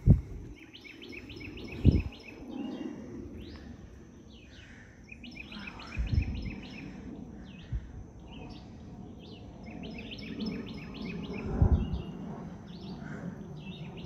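Wild birds chirping in repeated quick runs of short high notes, over a faint steady high tone. Four dull low thumps stand out, at the very start, about two seconds in, about six seconds in and near twelve seconds.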